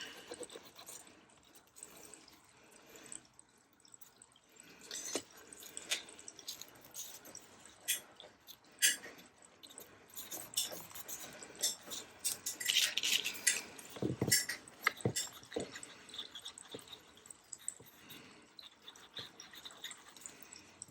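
Quiet crafting handling sounds at a desk: scattered small taps and clicks and a few short papery rustles as paper tag pockets are handled and coloured.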